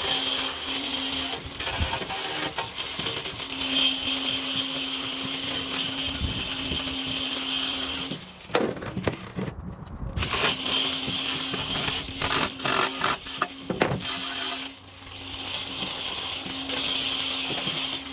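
Handheld electric power tool running with a steady motor whine in long stretches. It stops twice, briefly, with knocks and clatter of metal parts in between.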